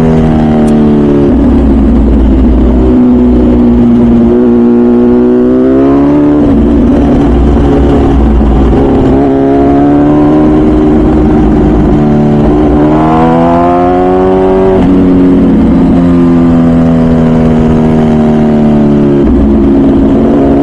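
MV Agusta Brutale 1000RR Nurburgring's 998cc inline-four, through its full titanium Arrow exhaust, pulling under throttle on the road. The revs climb hard twice, each time dropping back sharply before pulling again.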